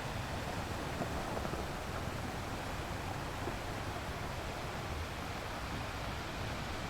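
Ocean surf: a steady wash of waves, an even rushing noise with no single break standing out.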